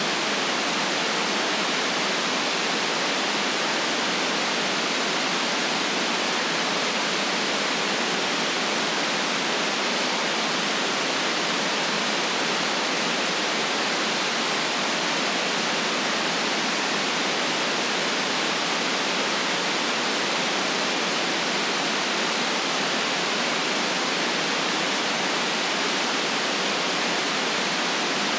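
Steady, unchanging white-noise hiss with no deep rumble beneath it.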